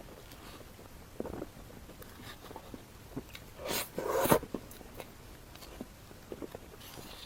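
Close-miked eating: a person biting and chewing food, with scattered small mouth clicks and a louder cluster of bites about halfway through.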